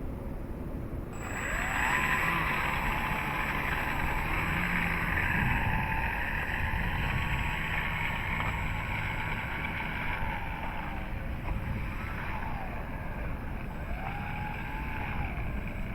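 Electric motor of a Dynam Cub RC plane spinning up about a second in and running at taxi power, its whine rising and falling as the throttle is worked.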